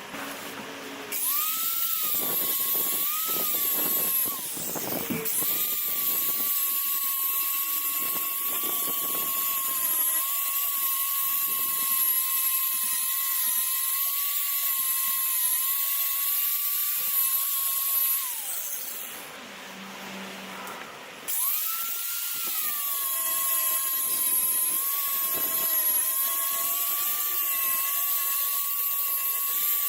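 Dual-action sander running against fiberglass tabbing, knocking down its edges, with a steady high whine and hiss. It spins up about a second in, stops for a couple of seconds past the middle, then starts again.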